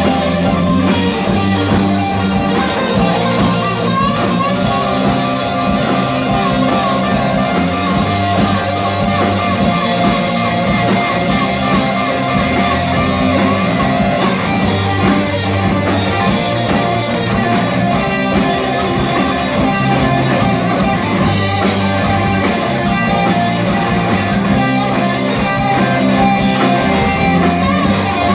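Live rock music with electric guitar to the fore over bass and drums, the guitar line wavering in pitch through the middle.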